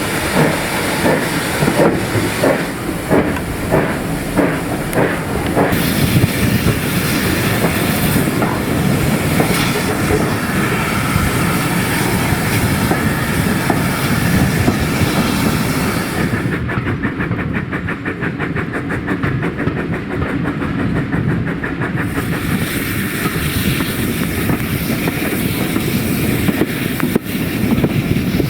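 A train running past on the line, with a steady rumble and regular clicking of wheels over rail joints in the first few seconds.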